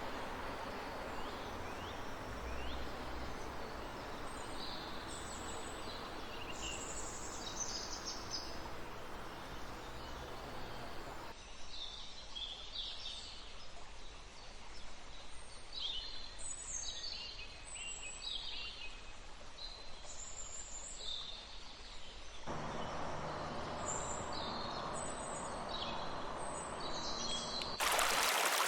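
Forest birds chirping and trilling in short, repeated calls over a steady rush of running water. The background changes abruptly twice, and near the end a much louder rushing stream cuts in.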